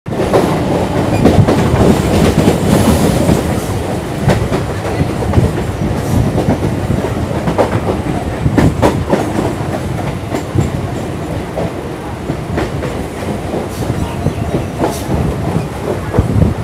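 Chennai suburban electric train running at speed, a steady rumble heard from the open doorway of the coach, with the wheels clattering over rail joints at uneven intervals.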